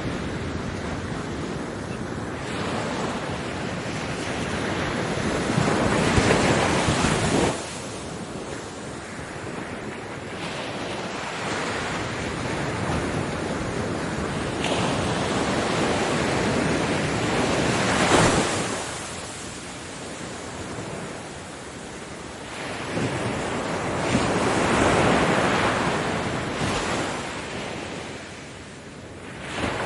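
Waves breaking on a beach: a steady wash of surf that swells into louder breakers several times, then eases back between them.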